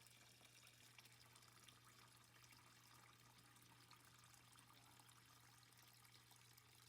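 Near silence: faint water trickling from a dishwasher drain hose into a bucket, over a steady low hum.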